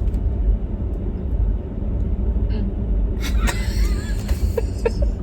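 Steady low rumble of a car on the move, heard from inside the cabin, with a few faint clicks and higher tones in the last two seconds.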